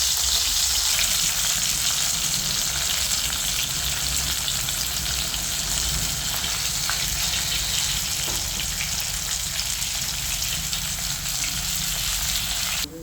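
Tilapia frying in hot oil: a steady, dense sizzle that cuts off suddenly near the end.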